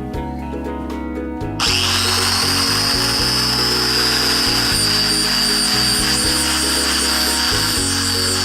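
Electric power tool starting about a second and a half in and running steadily with a high whine, buffing a motorcycle muffler. Background music plays underneath.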